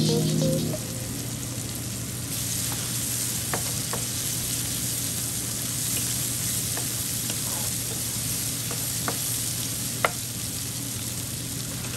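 Food sizzling steadily in hot butter in a frying pan, with a few light taps of a utensil stirring it.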